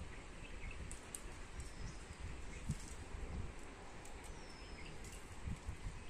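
A bird's short, high, falling whistle, heard twice, about two and a half seconds apart, over outdoor ambience with low irregular thumps underneath.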